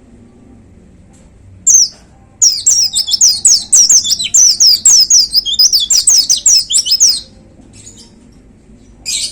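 White-eye (pleci) singing: a single high call, then about five seconds of fast, rapid-fire high notes that each sweep downward, then another short call near the end.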